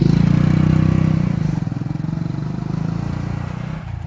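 Motorcycle engine running with a fast, even putter, gradually fading as it moves away.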